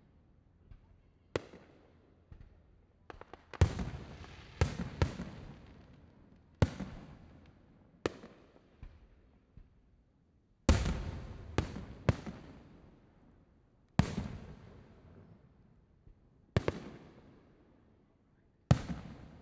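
Aerial fireworks shells bursting: about a dozen sharp booms at uneven intervals, some in quick pairs, each followed by a long rumbling echo that dies away.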